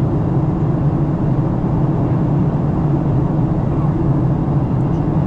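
Steady cabin noise inside a Boeing 737-900 on approach: the CFM56-7B turbofans droning with a low hum under the rush of airflow past the fuselage.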